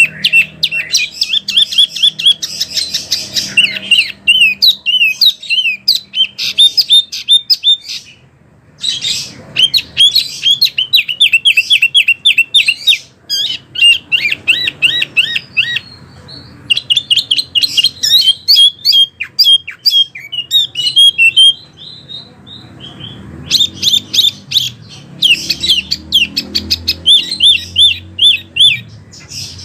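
Wambi bird singing: long bursts of rapid, repeated high chirps and trills, with short breaks about eight seconds and twenty-two seconds in.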